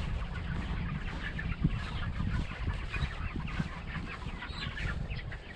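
A flock of five-week-old broiler chickens peeping and clucking, many short calls overlapping, over a low rumble, with one brief thump about one and a half seconds in.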